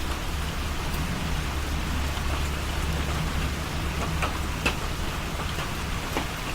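Steady rain falling, an even hiss with a low rumble underneath and a few faint ticks of drops.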